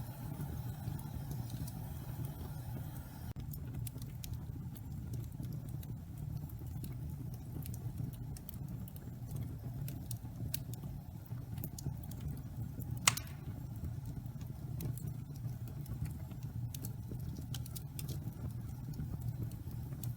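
Wood fire of damp pine logs burning in a fireplace: a steady low rumble of flame with scattered crackles, and one loud sharp pop about 13 seconds in.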